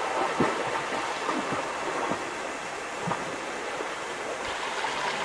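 Fast river current rushing in a steady wash, with a few faint knocks scattered through it.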